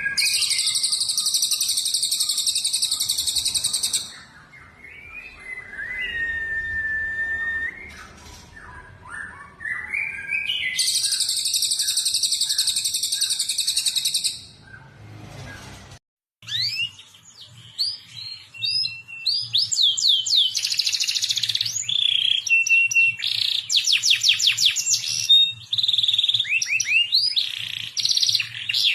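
Songbirds singing: two long, dense, high trills with scattered whistled notes between them. After a brief cut, a different recording of quick rising whistles and rattling trills.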